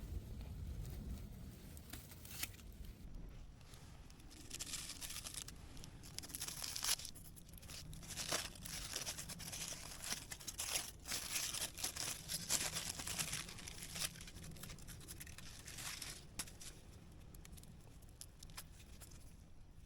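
Irregular crinkling and tearing, something being crumpled and torn by hand in fits and starts, busiest in the middle of the stretch.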